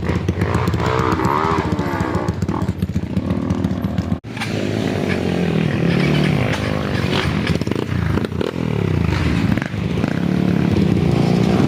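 Off-road trail motorcycle engines running and revving, the pitch rising and falling again and again. The sound cuts out for an instant a little past four seconds, then the revving resumes.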